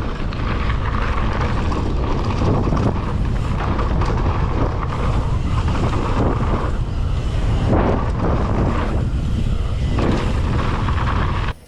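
Mountain bike riding fast down a dirt jump trail: wind buffeting the camera microphone over the steady rush of knobby tyres on dirt, with a few sharp knocks and rattles from the bike about eight and nine seconds in. The sound cuts off suddenly near the end.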